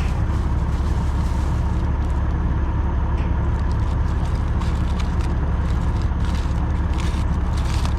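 A diesel engine idling steadily with a low, unchanging rumble, with light clicks and rustles over it.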